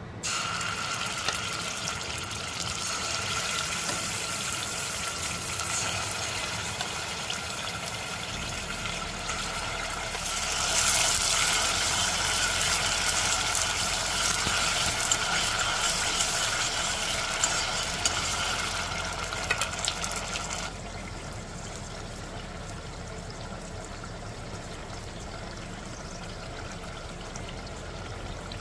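Tomato paste frying in hot oil in a stainless steel saucepan: a steady sizzle with a few clicks and scrapes of the spoon stirring it. The sizzle grows louder about ten seconds in and eases off after about twenty seconds.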